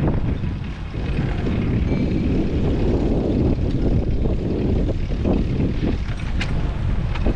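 Wind buffeting a GoPro's microphone while cycling, a loud, steady low rumble with a few short clicks or rattles near the end.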